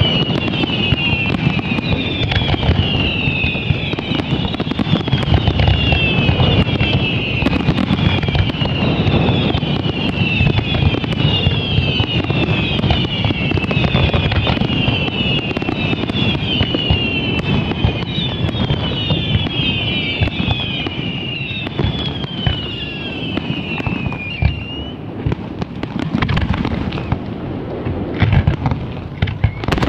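Fireworks display at full barrage: many shells bursting in quick, overlapping bangs with a low rumble. High falling whistles repeat about once a second and fade out near the end, leaving fewer, separate bangs.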